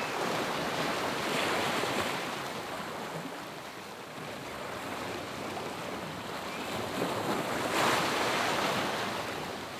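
Ocean surf: waves breaking and washing on a shore as a steady rushing noise. It swells twice, about a second and a half in and more loudly about eight seconds in.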